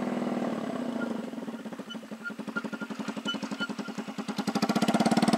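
Peugeot Kisbee 4T 50cc single-cylinder four-stroke scooter engine running with no silencer on its exhaust. It runs steadily, drops off about a second in to a slower putter of separate exhaust pulses, and picks up again near the end.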